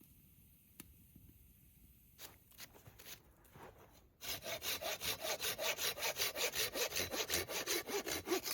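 Small hand saw cutting through wood in quick, even strokes, about five a second, starting a little before halfway after a few faint scrapes.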